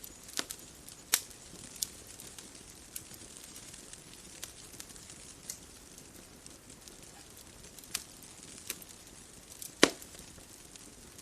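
Wood fire crackling: irregular sharp pops and snaps over a faint steady hiss, with the loudest pops about a second in and near the end.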